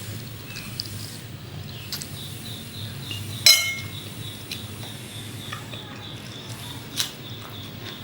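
Tableware clinking: one loud ringing clink of a utensil against a dish or glass about three and a half seconds in, and a sharper tap near the end, over a low steady hum.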